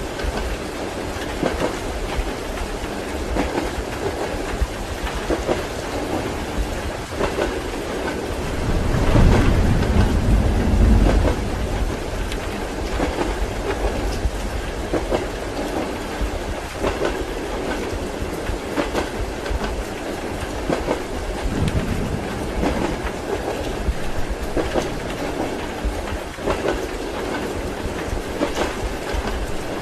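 Train wheels clacking over rail joints, heard as a steady rhythmic rumble from inside a passenger carriage, with rain. A roll of thunder swells up about eight seconds in and dies away after about three seconds.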